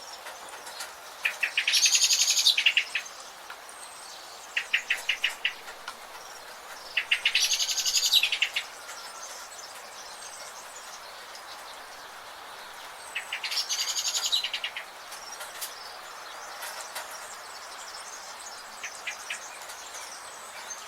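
Songbird singing a short, fast, trilling song of about a second and a half, repeated three times roughly six seconds apart. Short runs of quick ticking notes come between the songs, over a steady background hiss.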